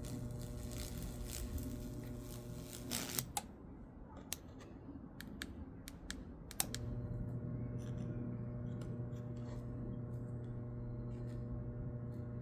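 Microwave oven transformer rig humming while high voltage crackles and snaps across the wood, burning a Lichtenberg figure. About three seconds in the hum cuts out after a loud crack, leaving a few scattered snaps. It comes back on with a sharp click near the seven-second mark.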